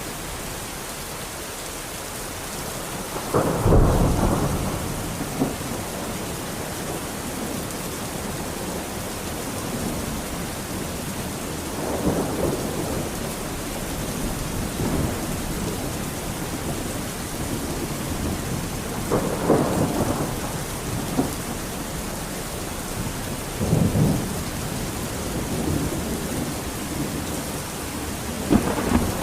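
Thunderstorm: steady heavy rain with rolling rumbles of thunder every several seconds, the loudest about four seconds in.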